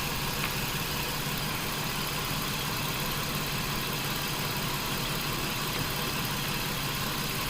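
Nissan Pathfinder's 4.0-litre V6 engine idling steadily under the open hood, an even hum with no change in speed.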